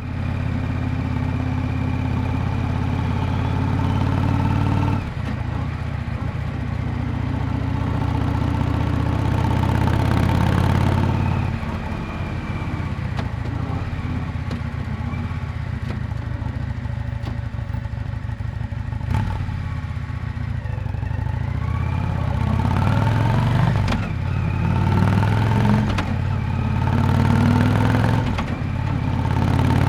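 Yamaha Drag Star 400 Classic's air-cooled V-twin exhaust while riding: steady cruising at first, easing off about twelve seconds in, then several rises in pitch in the second half as it accelerates through the gears.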